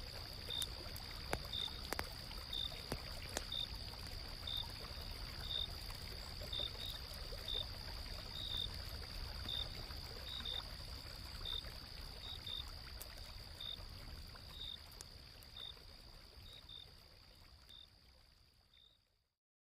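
Autumn-night nature ambience: insects calling, with one steady high trill and a second insect chirping about twice a second, over a low flowing stream and the occasional crackle of a campfire. It all fades out near the end.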